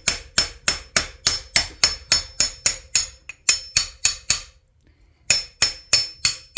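Hammer blows on a socket extension, driving the front axle out of a Honda CR250R's front wheel hub, about four strikes a second. The blows stop for a moment about four and a half seconds in, then carry on.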